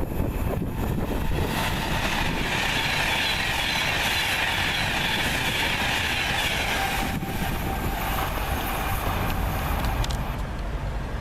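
A train running along the track at the platform, with a rushing hiss that builds about two seconds in and drops away about seven seconds in, over a steady low rumble.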